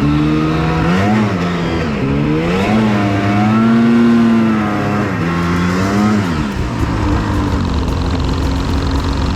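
Snowmobile engine revving up and down several times, then settling to a steady lower note near the end.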